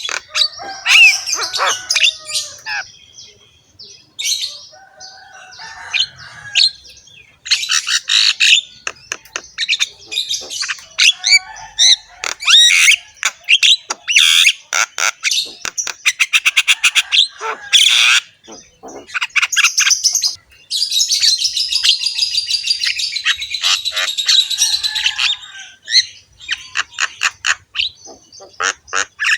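Javan myna (jalak kebo) singing a harsh, varied song of squawks, chatter and rapid rattling click trains, with a long, noisy burst of chattering past the middle.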